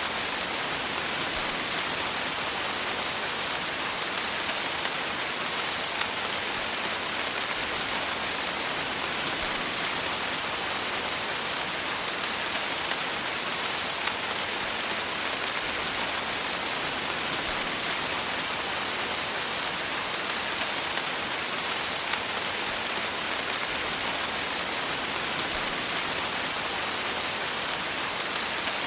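Steady rain falling, a dense even hiss with fine scattered drop ticks that holds at one level throughout.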